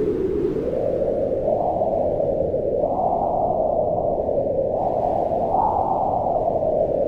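Wind howling in a steady low rush. It swells and rises in pitch about three seconds in, and again near the end.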